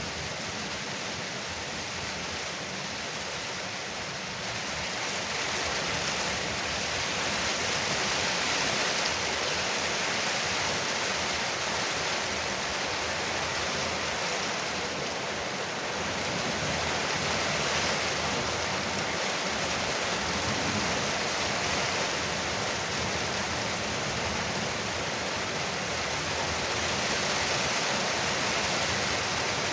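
Heavy rain falling steadily on a veranda roof, a dense even hiss that grows a little louder about five seconds in.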